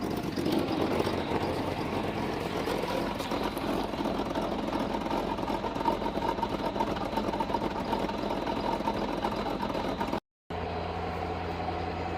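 Vehicle engine idling steadily. Near the end the sound cuts out for a moment and comes back as a steadier low hum.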